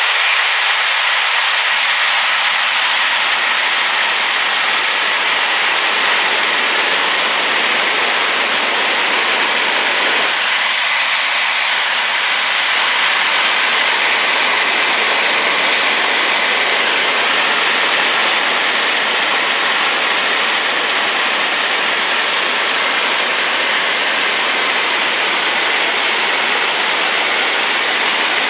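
A rain-swollen waterfall rushing in a loud, steady roar of white noise, a little fuller at the low end from about ten seconds in.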